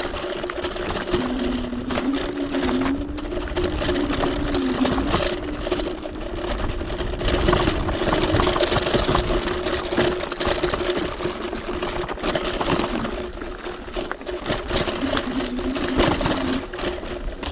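TRBK-M2 electric hyperscooter's motor whining, its pitch rising and falling as the speed changes, over the rumble of tyres on a dirt trail with frequent rattles and knocks from bumps.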